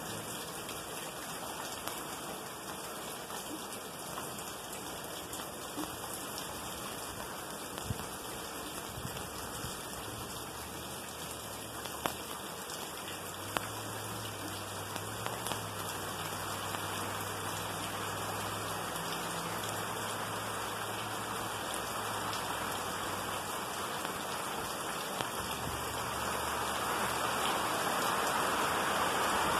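Light rain falling steadily, with scattered louder drops striking close by. A low hum comes and goes through the middle, and the rush of the rain grows louder near the end.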